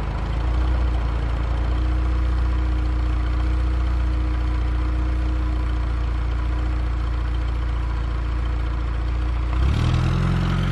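A train locomotive's steady low drone, running without change until its pitch and tone shift about ten seconds in.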